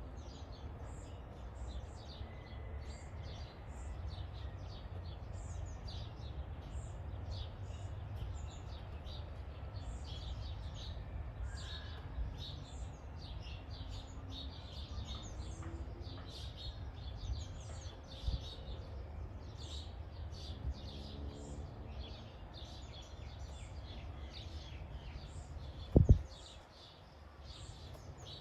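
Many small birds chirping steadily in quick, short high calls over a low background rumble, with one loud thump near the end.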